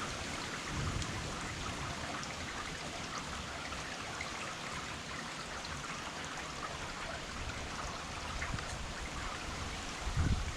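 Rain falling steadily: an even hiss with fine pattering drops.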